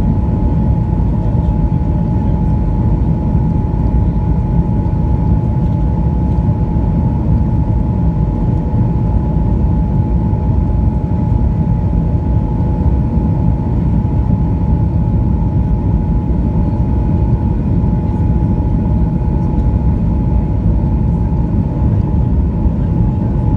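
Cabin noise inside a Boeing 737-900ER airliner: a loud, steady low rumble with a thin steady whine from its CFM56 turbofan engines.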